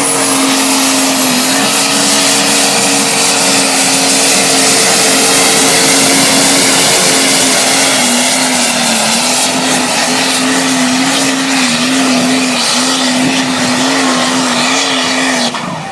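Turbocharged pulling tractor engine running flat out under heavy load, with a high turbo whistle over a steady engine note that wavers and sags slightly. It cuts off suddenly near the end.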